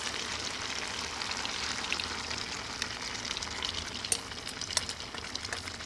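Chicken pieces frying in oil in a cast iron Dutch oven, a steady sizzle. From about four seconds in, sharp crackles and pops join in as the hot sauce mixture is poured into the hot pot.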